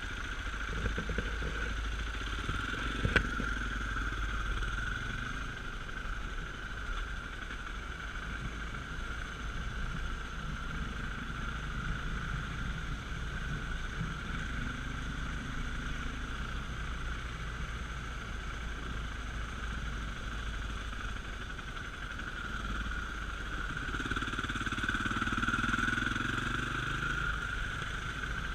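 Dirt bike engine running as it is ridden, rising and falling, and getting louder for a few seconds near the end. There is a low rumble and one sharp click about three seconds in.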